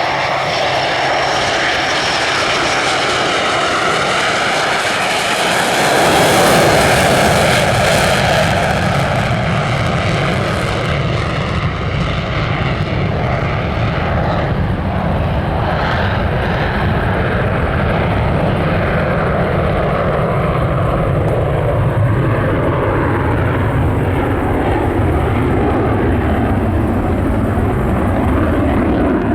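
F4U Corsair's radial piston engine and propeller running as the plane passes. The sound swells loudest about six to eight seconds in, then settles into a steady low rumble.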